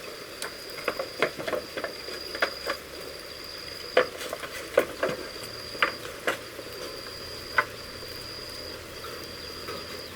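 A series of irregular knocks and clacks, a few sharp ones standing out, over a steady high-pitched insect call that breaks off briefly about once a second.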